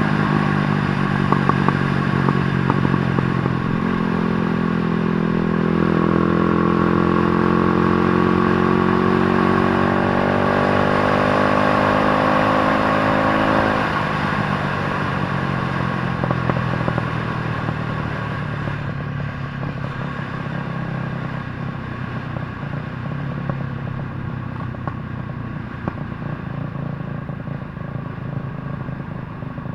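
150cc motorcycle engine revving, its pitch climbing steadily for about ten seconds. It then drops back to a lower, steady running note that continues to the end.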